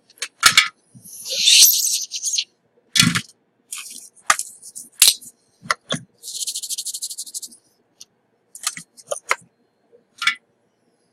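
Small metal tools being handled at a microsoldering bench: a string of sharp clicks and taps, with a short scratchy rasp about a second in and another about six seconds in.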